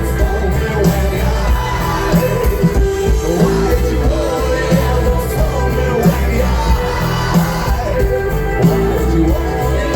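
Live rock band playing a song on stage, with a steady drum beat under melodic guitar or vocal lines.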